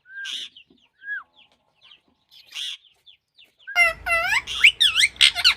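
Parrot calling: three short, separate squawks, then from near the end a rapid run of loud, shrill screeches that sweep up and down in pitch.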